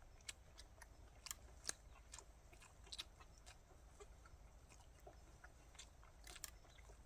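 Quiet eating: faint chewing with a dozen or so scattered light clicks.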